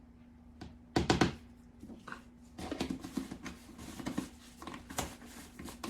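Containers and utensils handled while ingredients are measured out: a sharp knock about a second in, then a run of small clicks and rustles, over a faint steady hum.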